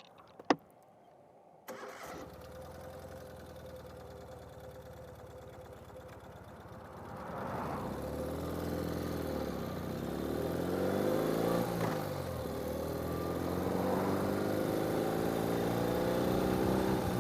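A click, then about two seconds in, a Ural sidecar motorcycle's air-cooled flat-twin engine starts and idles. From about halfway through it pulls away, its pitch climbing and dropping back several times as it accelerates through the gears.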